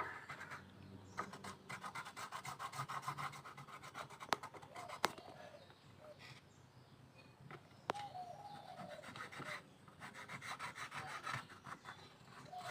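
Rapid back-and-forth rubbing strokes on wood, in two spells of a few seconds each, with a few sharp clicks between them.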